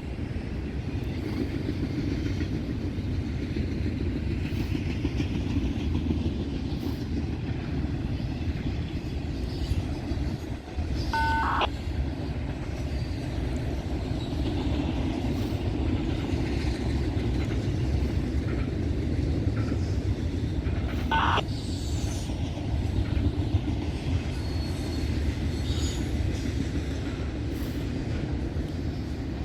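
Freight train rolling past, its cars giving a steady rumble, with wind buffeting the microphone. Two brief sharp metallic clanks with a short ring come about eleven and twenty-one seconds in.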